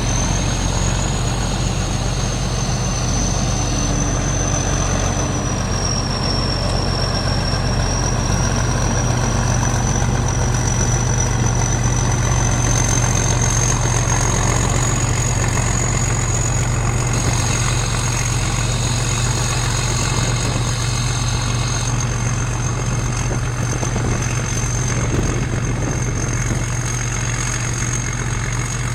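Rice combine harvester running steadily: a constant engine drone with a thin high whine above it that wavers slightly in pitch.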